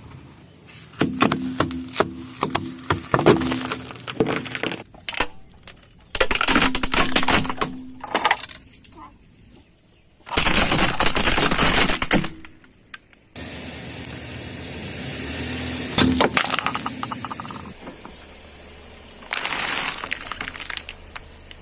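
Objects crushed under a car's tyres: repeated cracking, crunching and breaking, with a few seconds-long bursts of hiss, the loudest about halfway through, in several abruptly cut segments.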